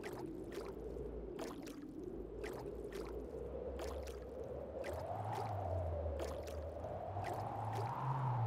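Animated-film sound design: soft squishing clicks about twice a second over a low hum, with a wavering tone that slowly rises in pitch.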